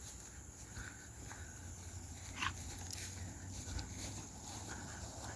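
Dog whining softly in a few short, high whimpers, the sharpest rising in pitch about two and a half seconds in.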